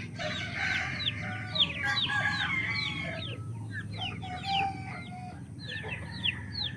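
A flock of young chicks peeping: many short, high calls that slide downward, overlapping in quick succession, over a steady low hum.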